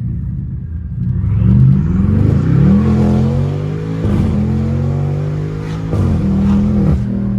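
BMW 550i twin-turbo V8 with catless downpipes and a straight-piped exhaust at full-throttle acceleration, heard from inside the cabin. The revs climb hard from about a second in, with upshift breaks about four, six and seven seconds in. The tyres are spinning for traction under the power.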